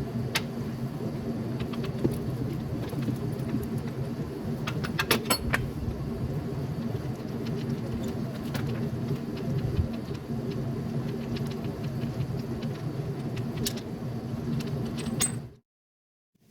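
Scattered light metallic clinks of hand tools and parts being handled, clustered around five seconds in, over a steady low hum.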